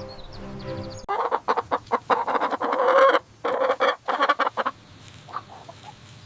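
Chickens clucking in quick, choppy runs; the calls begin suddenly about a second in and thin out after about four and a half seconds.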